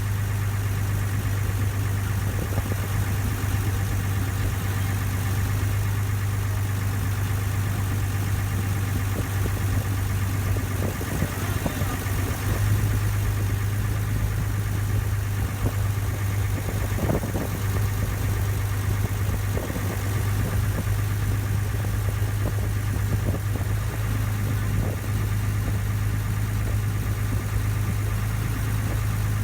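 Ferry boat's engine running steadily, heard on board: a constant low hum.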